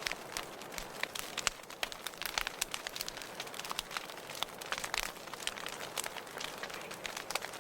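Wood fire crackling in a fireplace: a steady soft hiss with many irregular sharp pops and snaps, several a second.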